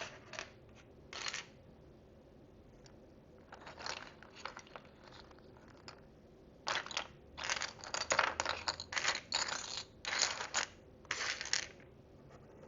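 Tiny plastic miniature food pieces and dishes being handled and sorted: a couple of brief clicks, then from about halfway in a busy run of rustling, clattering and crinkling.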